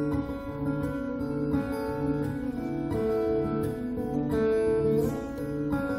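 Acoustic guitar playing an instrumental interlude between sung lines: chords ring over a steady repeating bass note about twice a second.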